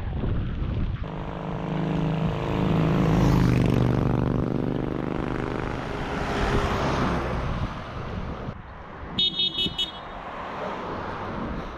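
A motor vehicle passes close by, its engine drone swelling and then fading over several seconds, over wind buffeting the microphone. About nine seconds in come four quick, high-pitched beeps.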